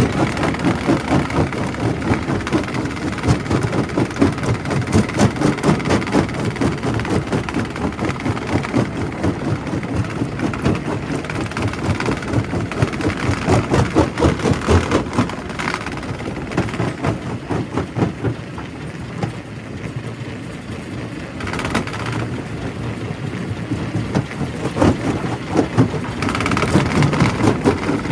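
Primary rock crusher in a quarry crushing stone: a dense, irregular clatter of rocks knocking and cracking over the machine's steady running rumble, easing off for a few seconds about two-thirds through before picking up again.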